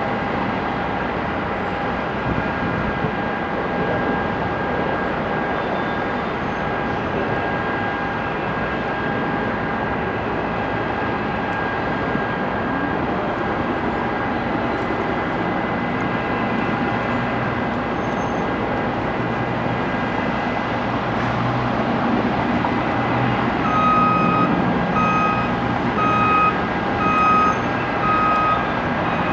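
Steady heavy engine noise with a constant high whine. About three-quarters of the way through, a truck's engine note rises and its reversing alarm begins beeping, about one and a half beeps a second.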